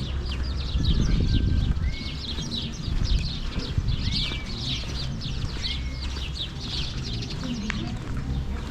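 A flock of small birds chirping and twittering in a dense, rapid chatter, with a short rising whistle heard three times. A low rumble runs underneath, louder about a second in.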